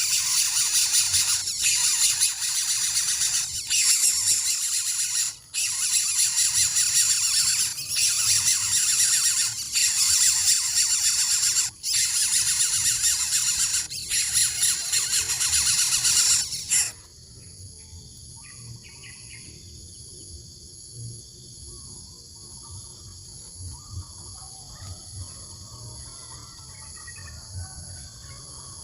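Loud, harsh hissing screech in long bouts broken by short gaps, cutting off suddenly about seventeen seconds in. Then a quieter, steady high insect trilling with faint bird chirps.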